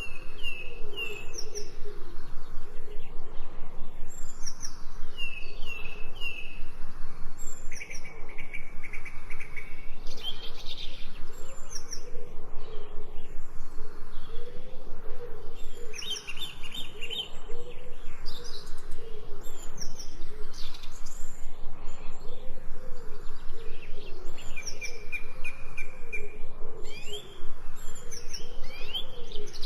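Several songbirds chirping and trilling in short, high whistled phrases, with a lower call repeating about once a second underneath.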